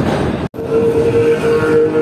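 Passenger train running, its rumble heard from on board, broken by a brief cut about half a second in. After the cut a steady high tone sits over the rumble.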